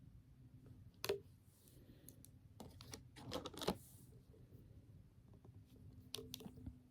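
Faint clicks and scrapes of scissors prying at the stuck lid of a putty container: one click about a second in, a cluster of clicks and scraping around three to four seconds in, and a few more clicks near the end.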